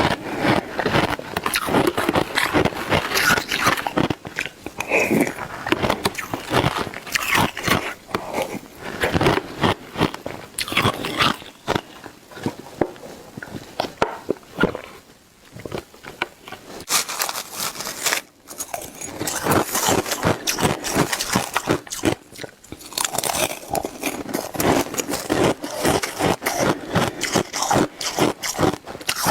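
Shaved ice being bitten and chewed close to the microphone: loud, dense, irregular crunching. It eases for a few seconds about halfway through, then resumes.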